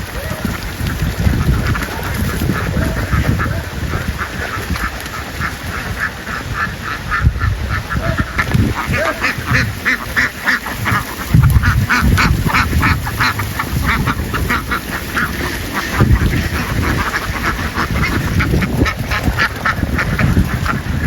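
A large flock of ducks quacking: many rapid, overlapping calls that grow busiest midway. Low rumble and a few thumps run underneath.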